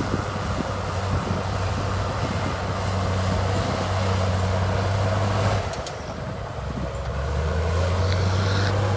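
Heavy diesel engine running steadily. About six seconds in its note dips and quietens, then it picks up again, settling lower before rising back near the end.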